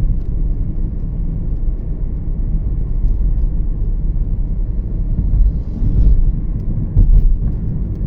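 Steady low road and engine rumble of a moving Toyota Yaris, with a couple of louder low thumps in the second half.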